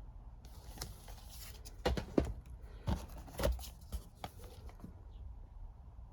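Blu-ray and DVD cases and packaging being handled: a rustle, then a string of sharp clicks and knocks, about six of them.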